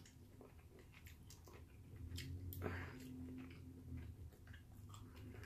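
Faint chewing and small mouth clicks of someone eating crab and rice, scattered irregularly over a low steady hum.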